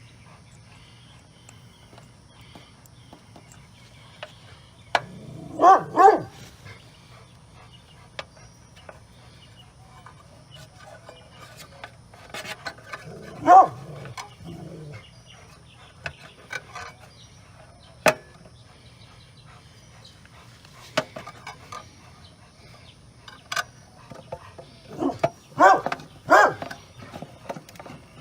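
A dog barking: two barks about six seconds in, one about halfway, and three close together near the end, with scattered faint clicks between them.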